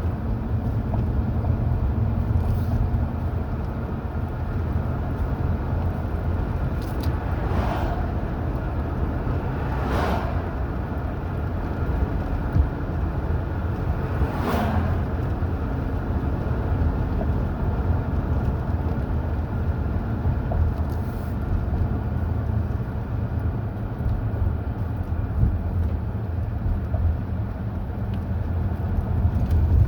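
A car being driven along a mountain highway: a steady low rumble of engine and tyre noise, with a few brief swells of sound about 8, 10 and 14 seconds in.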